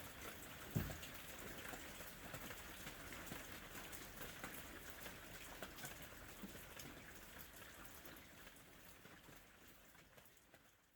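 Steady rain with many small scattered crackles, as of rain mixed with a crackling fireplace, and one low thump about a second in. The sound fades out gradually over the last few seconds.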